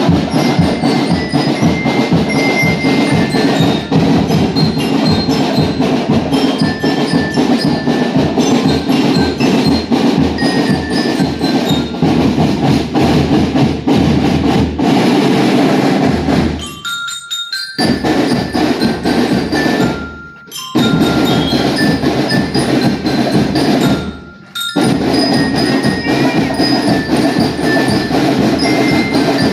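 School marching band playing a march: drums keep a steady beat under a melody on bell lyres (marching glockenspiels). The music cuts out briefly three times past the halfway point.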